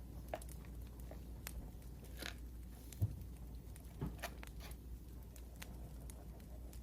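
Wood fire crackling: irregular small snaps and pops over a low steady hum, with a louder thump about three seconds in.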